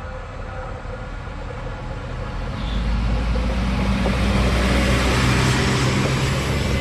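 Polregio SA138 diesel multiple unit passing on the Hel line, its diesel engines running and wheels on the rails. The sound grows louder about two and a half seconds in, with a low engine hum and rising rail noise as the train comes close.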